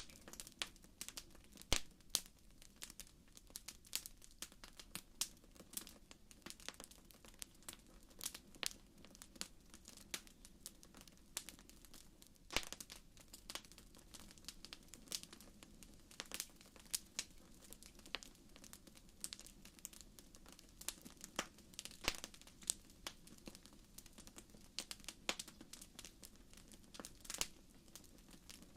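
Wood fire burning in a fireplace: irregular sharp crackles and pops, a few louder snaps among many small ones, over a faint low hiss of the flames.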